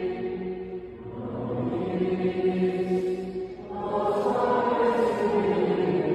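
Choir singing a slow hymn in long held phrases, with short breaks between phrases about a second in and again near four seconds in.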